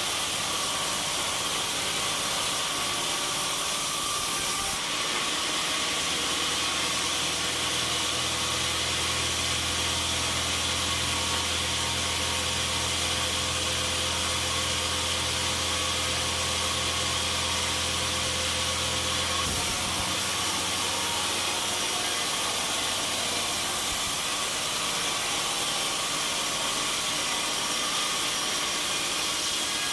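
Sawmill machinery running steadily, with a deeper hum coming in about six seconds in and dropping out suddenly near twenty seconds.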